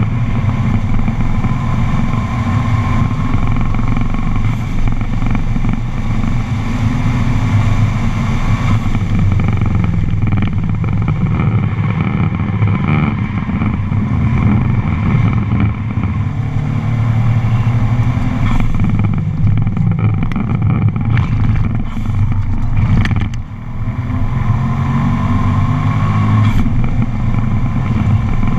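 A Subaru's engine running hard on a track lap, heard from inside the cabin, its note rising and falling as the car accelerates and changes gear. Around 23 seconds in the engine eases off in a brief dip in level.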